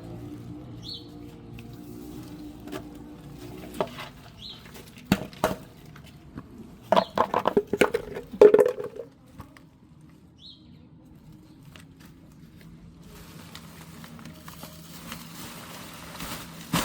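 A run of clicks and knocks like objects being handled, in a cluster of louder clatter a little past the middle. Three brief, faint high chirps, like a small bird's calls, come about a second in, around four seconds in and past ten seconds.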